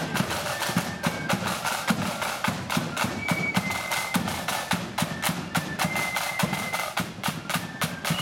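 Blood-and-thunder flute band playing a march: flutes carry a high melody over dense, rapid snare drumming and bass drum beats.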